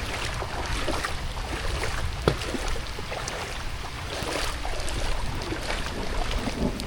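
Water sloshing and splashing in the rain, with scattered small drips and splashes over a low rumble of wind on the microphone.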